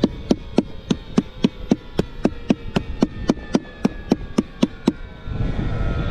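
Hammer strikes on a roof in a quick, very even run, about three to four blows a second, which stop about five seconds in. A steady rumble takes over near the end.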